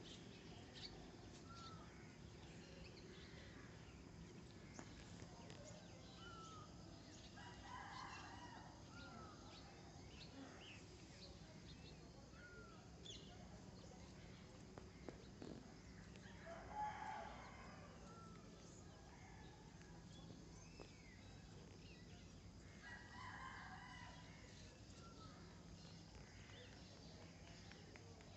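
Faint bird calls: three longer calls about eight seconds apart, with short chirps in between, over a low steady background hum.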